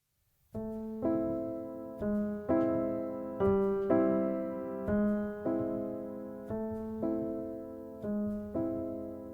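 Piano intro: repeated sustained chords struck about twice a second, each ringing and fading before the next, starting about half a second in after silence.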